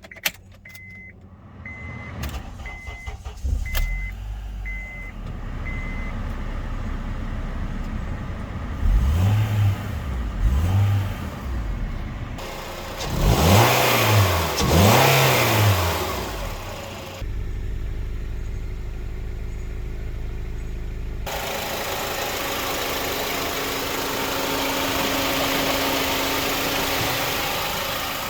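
2007 Honda Accord engine running and revved four times, rising and falling in pitch with each rev, then settling to a steady run. A repeating beep sounds over the first few seconds.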